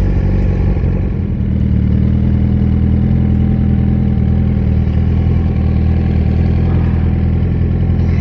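Suzuki GSX-R 1000 inline-four with a Brock's performance exhaust running steadily at low engine speed, with a slight dip about a second in.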